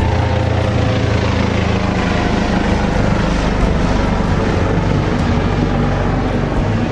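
A large engine running steadily, with a dense rushing noise over it.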